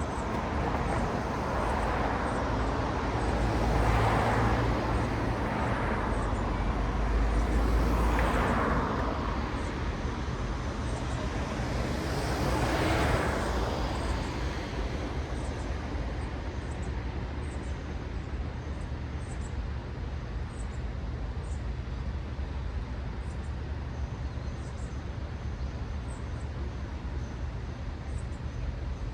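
Cars passing one after another on a city road: tyre and engine noise swells and fades about four times in the first half, then settles into a steady, lower traffic hum.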